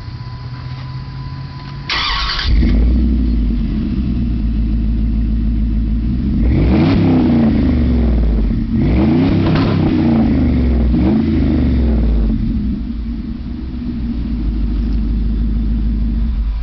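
2005 Dodge Dakota's V8 through a Flowmaster Super 40 muffler with dual side-exit pipes: a brief harsh burst about two seconds in, after which the deep exhaust note runs loud. It is revved up and dropped back three times in quick succession, settles to a steady idle, then cuts off sharply at the end.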